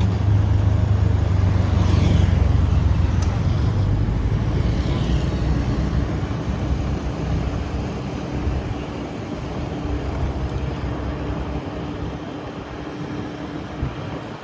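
Motorbike on the move: engine and road noise with a heavy low rumble that is loudest for the first few seconds, then eases off.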